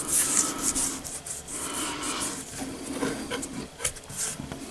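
Repeated scrubbing and scraping strokes, several a second in irregular bursts, as built-up grime is cleaned off a bathroom sink drain part.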